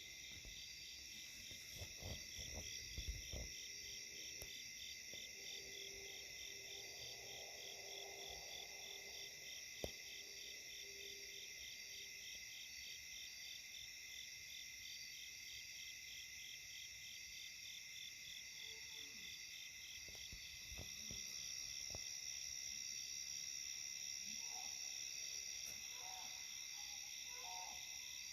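A night insect chorus pulses steadily and evenly throughout. Over it comes a long, steady, low-pitched call from an unidentified animal, with short calls near the end. A few low thumps sound early on, with a single click near the middle.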